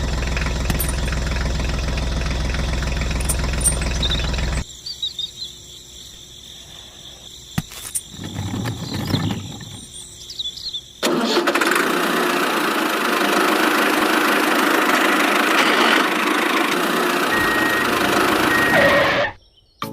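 An engine running steadily that cuts off about four and a half seconds in, followed by a quieter stretch. Then a loud, even machine noise runs for about eight seconds and stops abruptly near the end.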